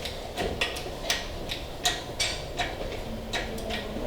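A 15-ton shop press being worked to press a rubber bushing into an engine mount: a rhythmic, slightly uneven clicking, about two to three clicks a second.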